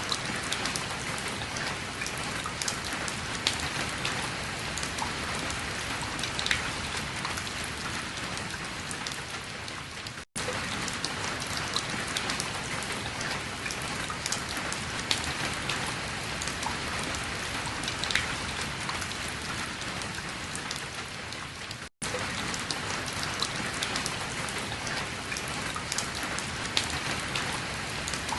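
Steady rain falling, an even hiss dotted with the sharp ticks of drops hitting surfaces. It cuts out abruptly twice, for an instant each time, where separate recordings are joined.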